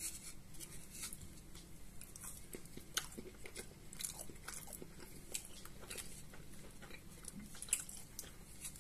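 Close-miked chewing of a fried meat-filled pastry with ketchup: quiet, irregular mouth clicks and small crunches.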